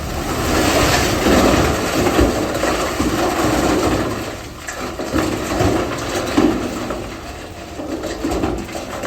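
Komatsu bulldozer working, its engine running under load while rock grinds and crunches under the blade, swelling and easing in waves with scattered sharp clacks of stone.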